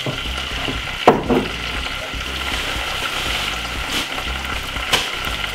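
Salmon steak sizzling steadily in hot olive oil in a saucepan, with a sharp knock about a second in and a couple of fainter ticks later.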